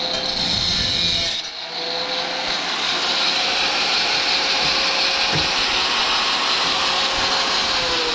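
Power tool cutting sheet metal for a fender patch: a loud, steady motor tone over cutting noise, with the motor starting to wind down, falling in pitch, near the end.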